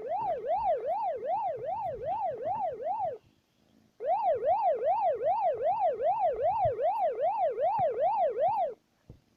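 Electronic yelp siren, its pitch sweeping rapidly up and down about three times a second. It breaks off briefly just after three seconds in, starts again, and cuts off abruptly near the end.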